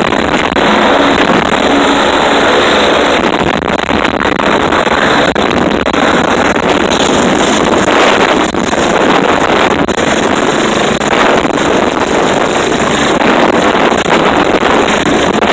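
Leonardo AW109SP medical helicopter's twin turboshaft engines and rotor running steadily on the helipad, a dense, loud rush with a steady high turbine whine above it.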